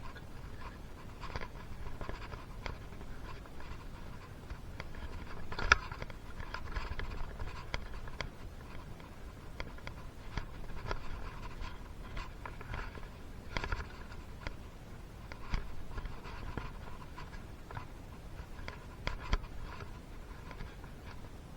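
Hand work on small engine parts: scattered light clicks, taps and brief scraping, with one sharper click about six seconds in.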